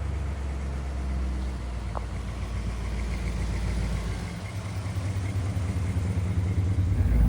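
1956 Ford Thunderbird's V8 running as the car drives along: a steady low engine and road hum that grows louder over the last few seconds.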